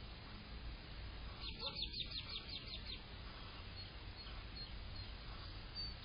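A small bird singing a quick trill of about nine short, high, down-slurred notes about a second and a half in, with a few fainter high notes later, over a steady low background rumble.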